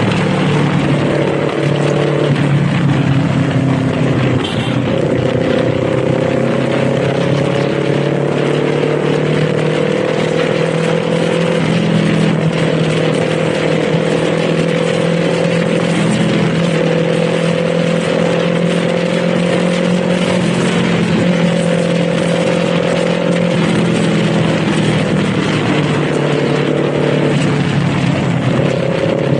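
Kawasaki Z400 parallel-twin engine and exhaust running under way at fairly steady revs. The pitch creeps up slowly and drops back several times through the stretch, over a constant rush of riding noise.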